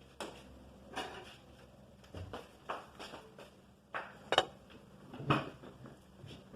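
Eating blue crab by hand: several sharp clicks and cracks of shell being broken, with knocks against the plate, spread irregularly through a few seconds.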